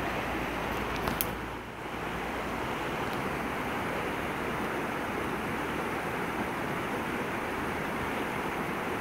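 Steady outdoor rushing noise with no distinct events, of the kind made by surf, wind or running water. A brief dip in level comes about a second and a half in, where a low rumble drops away.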